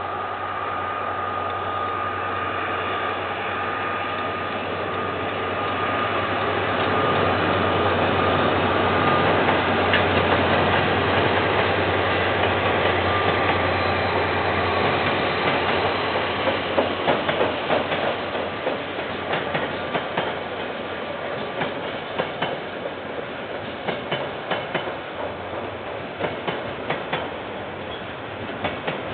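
KiwiRail train passing: the diesel locomotive's steady hum and whine swell to their loudest about ten seconds in. Through the second half the wagons' wheels click over the rail joints in a quick, uneven run.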